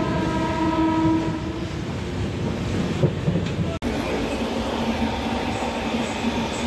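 A train horn sounding over the steady running noise of a moving passenger train, heard from inside the coach; the horn fades out about a second and a half in. Near four seconds the sound cuts off abruptly, and the running noise resumes.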